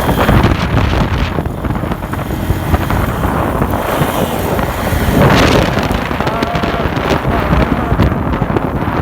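Motorcycle riding along the road, its engine running under heavy wind buffeting the microphone.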